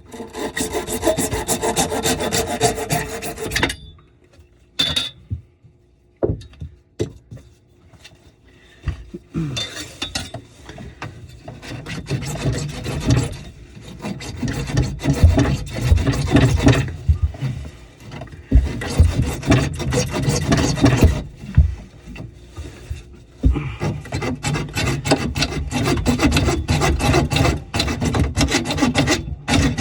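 Rapid rasping strokes of a hand saw or file working on drain pipe, in several spells with short pauses and a few knocks between them.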